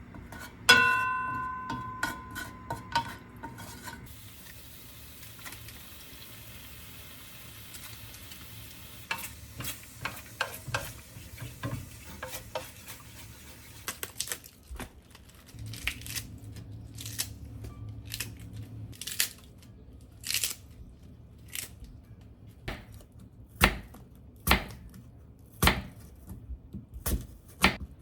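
Kitchen cooking sounds: a metal clink near the start rings and fades over a few seconds, then food sizzles in a pan for a few seconds. After that come many sharp knocks and clinks of utensils against pans and dishes.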